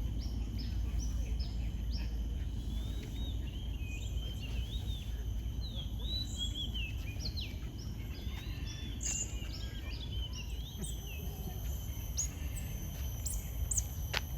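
Many birds chirping and calling together in an aviary: short, quick chirps and whistled notes that rise and fall, over a steady low rumble.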